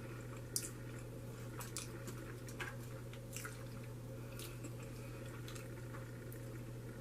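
A person chewing food close to the microphone, with scattered soft wet mouth clicks over a steady low hum.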